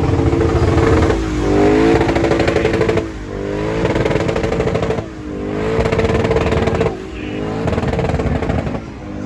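Car engine revved hard over and over: held at high revs for about two seconds, then dropping off and climbing straight back up, four times.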